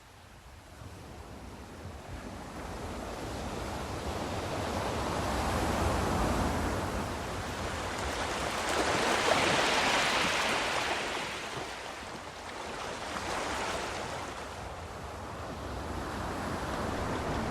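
Sea waves washing in slow swells, loudest about halfway through, with smaller swells after.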